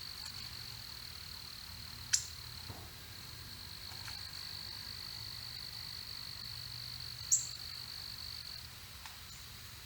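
A steady, high-pitched insect trill that stops near the end. Over it come two sharp, high chip calls, the loudest sounds, about five seconds apart.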